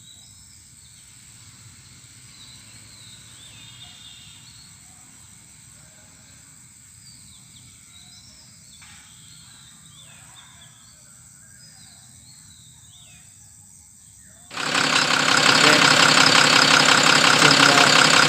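Faint birds chirp over quiet outdoor background. About fourteen seconds in, the Tata Cummins BS3 diesel truck engine suddenly comes in loud, running steadily at idle after its seized crankshaft was freed and fitted with bearings.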